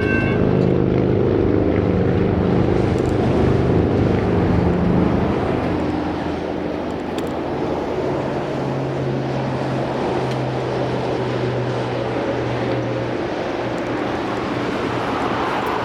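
A train horn cuts off just after the start, leaving a steady low rumble of a train going through the crossing, with a diesel engine hum that eases after about five seconds.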